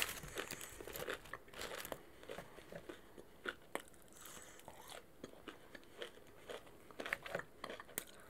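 A person chewing fried food close to the microphone: irregular bites and crunches, busiest in the first couple of seconds and again about seven seconds in.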